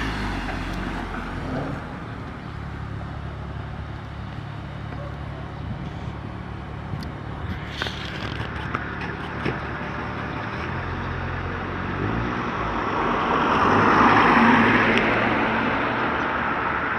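Car engine running at a low steady idle, with a louder swell of vehicle noise building and fading about two-thirds of the way through as a car passes.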